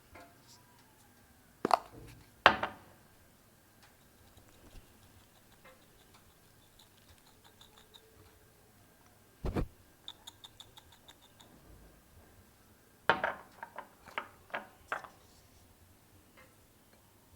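Scattered knocks and clicks of small objects being handled. Two sharp knocks come about two seconds in, a single thud near the middle, then a quick run of light ticks and a close cluster of knocks near the end.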